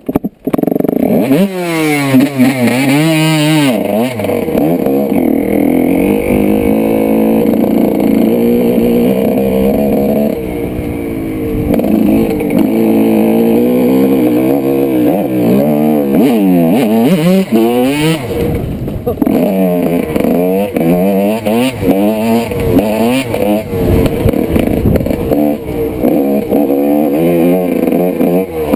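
1995 Honda CR125's single-cylinder two-stroke engine being ridden hard, revving up and falling off again and again as the rider works the throttle and gears. It eases to a steadier, softer note for a couple of seconds around ten seconds in, and dips briefly again later.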